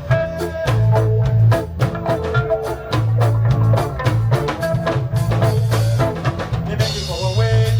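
A reggae band playing live: a drum kit beating steadily with a heavy bass line and guitar or keyboard notes over it, with no singing.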